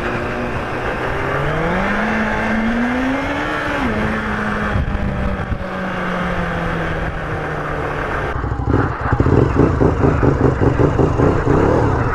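Sport motorcycle engine pulling up through the revs for about two seconds, dropping at a gear change, then holding steady and slowly easing off. In the last few seconds it turns louder and choppy, with an uneven pulsing.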